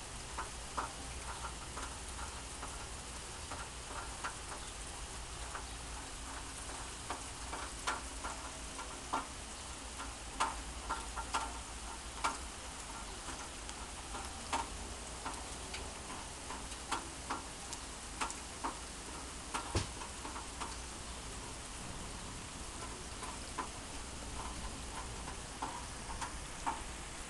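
Heavy summer rain falling steadily, a dense even hiss, with irregular sharp taps of single large drops landing close by.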